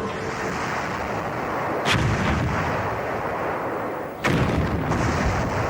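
Wartime naval battle: heavy gunfire and explosions in a continuous din, with two sharp blasts, about two seconds in and just after four seconds.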